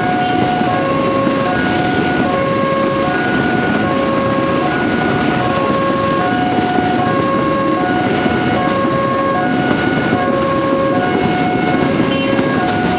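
Freight train of fuel tank wagons rolling past close by, a steady rumble of wheels on rail. Over it a level-crossing warning alarm repeats two alternating tones over and over.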